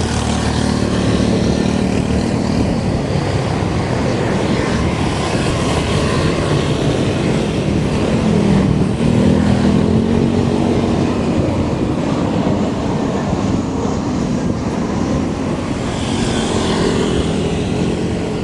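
Steady wind rush and road noise on a bike-mounted microphone while riding. A low vehicle hum swells about halfway through.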